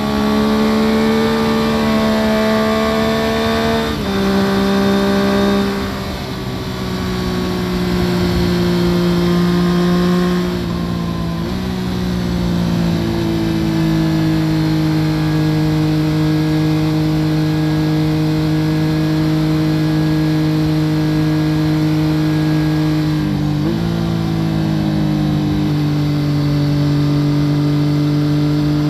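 Yamaha FZ-09 three-cylinder engine with an Akrapovic full exhaust system running under way at steady revs, heard from under the seat. The engine note drops in steps about 4 and 12 seconds in, with a brief dip near 24 seconds, then holds steady again.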